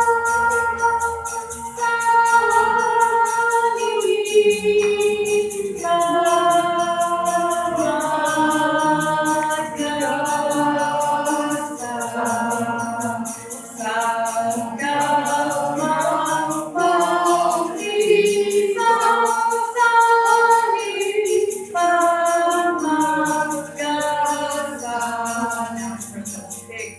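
Live sitar song with voices singing long held notes over a steady, fast, high percussion rhythm.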